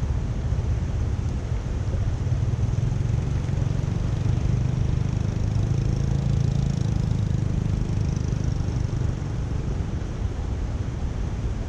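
Water rushing steadily through a culvert drain, a continuous low roar.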